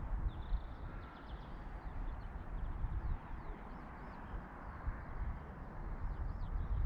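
Small birds chirping and twittering in short, quick calls over a steady low rumble.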